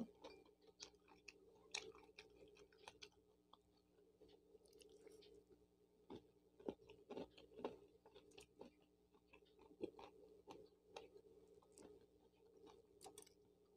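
Faint chewing of a person eating: soft mouth clicks at irregular intervals, a few slightly louder ones in the middle.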